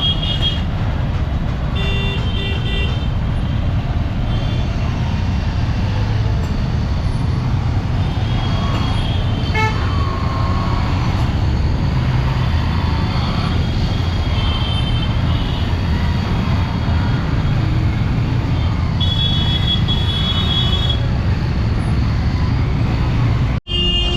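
Busy road traffic, engines running in a steady rumble, with repeated short horn toots from different vehicles. The sound cuts out abruptly for an instant near the end.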